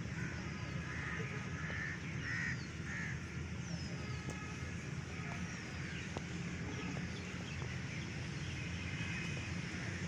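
Birds calling: four short calls about half a second apart in the first few seconds, then several short falling chirps, over a steady low rumble.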